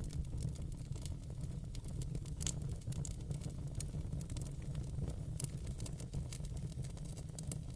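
Fire burning in a fireplace: a steady low roar of flames with many small, irregular crackles and pops of burning wood, a few a little sharper than the rest.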